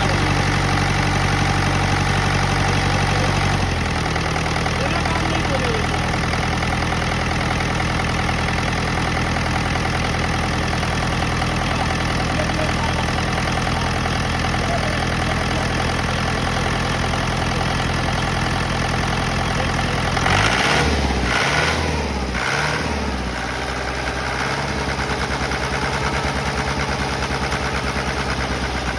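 Mahindra DI diesel engine idling steadily, the injection pump being the part under scrutiny. About twenty seconds in, a brief louder noise comes and the engine note shifts before settling into a steady idle again.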